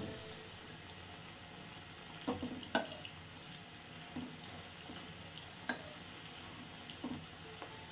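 Gadal-leaf fritters frying in oil in a steel wok on a low flame, a faint steady sizzle. A metal spatula clicks and scrapes against the wok a few times as the fritters are turned.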